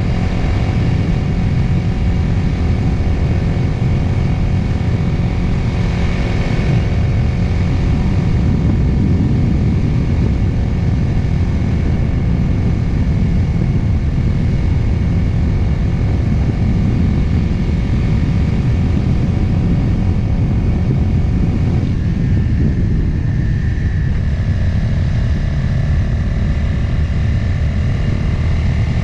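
Motorcycle engine running downhill on a mountain road, its pitch shifting with the throttle and changing about 22 seconds in, under a heavy, steady wind rumble on the mounted microphone.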